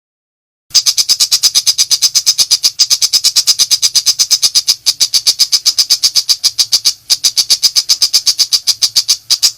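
Long-tailed shrike (pentet macan) in a rapid-fire burst of sharp, high, rattling notes at about seven a second, breaking off twice for a moment and stopping abruptly near the end.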